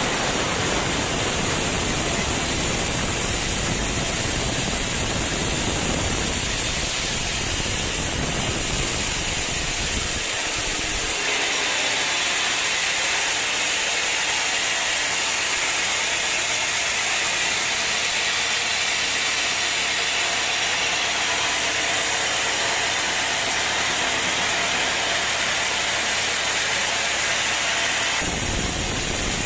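Sawmill machinery running with a steady, hissy mechanical noise. The sound changes abruptly about eleven seconds in and again near the end, as one clip cuts to the next.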